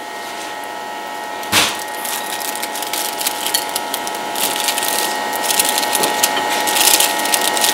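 A single knock about a second and a half in, as a phone is set down on the wooden table. Then close-up crunching of crisp pizza crust being bitten and chewed: rapid sharp crackles that grow denser toward the end, over a faint steady hum.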